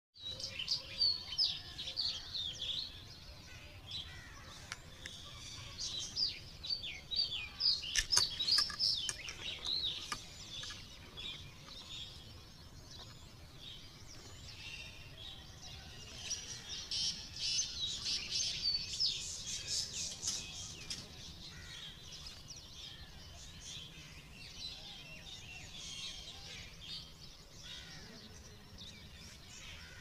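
Small birds chirping and twittering in quick high notes. There are two busy bouts, one in the first third and another just past the middle, with scattered chirps in between.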